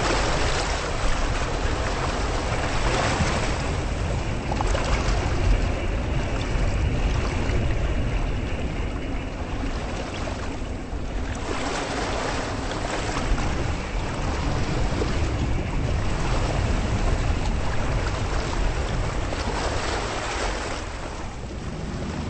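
Waves washing against a lake shore, with wind gusting over the microphone in a low rumble. The wash swells and eases every few seconds.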